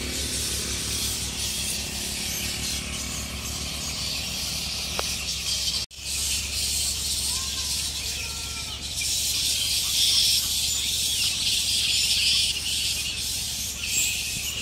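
Roosting colony of flying foxes chattering and squealing in a dense, high-pitched din, louder after a brief dropout about six seconds in. A low engine hum fades out over the first few seconds.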